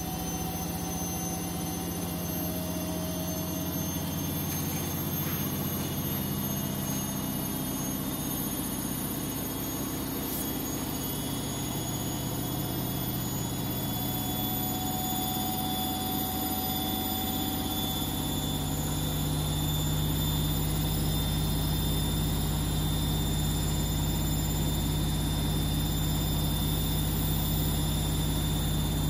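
Siemens washing machine spinning, a steady motor whine over the drum's hum. About two-thirds of the way through the low hum grows stronger and a little louder.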